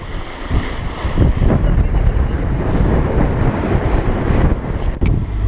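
Wind buffeting the microphone in uneven gusts over the rush of water along the hulls of a small sailing catamaran under way.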